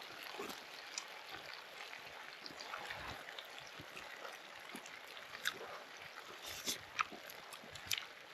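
Campfire crackling: a low steady hiss with scattered sharp pops and snaps, a few louder ones in the second half.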